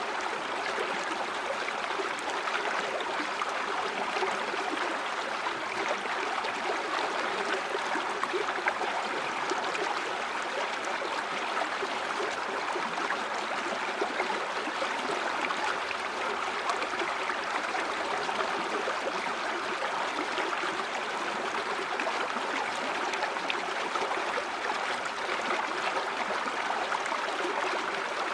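River water flowing steadily over stones, a continuous rushing and babbling with no pauses.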